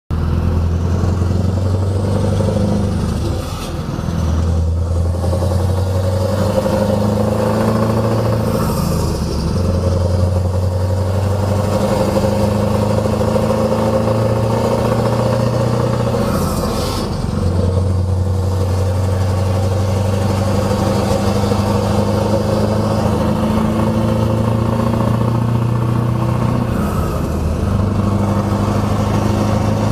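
Scania R500's V8 diesel engine running through loud exhaust pipes, a steady deep drone. Its pitch dips and climbs again several times, a few seconds apart.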